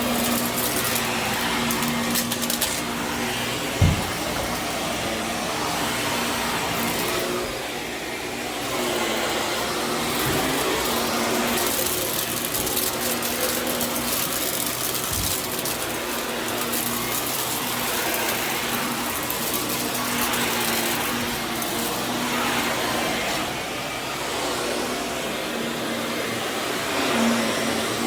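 Vacuum cleaner running on berber carpet, a steady motor hum under the rush of air, swelling and dipping as it is worked back and forth, with a single knock about four seconds in.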